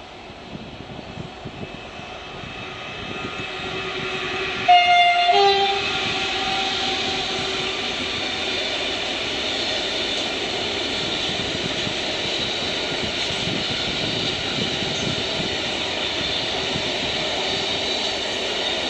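Intermodal freight train approaching and passing, its locomotive giving a short two-note horn blast about five seconds in, followed by the steady rolling noise of the wagons going by.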